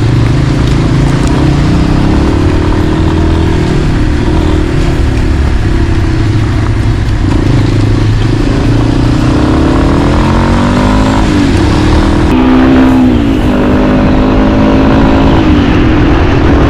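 Yamaha XT250 motorcycle's single-cylinder engine running under way, its pitch rising and falling with the throttle and gear changes, with several drops and climbs in pitch in the second half. Wind rushes across the microphone throughout.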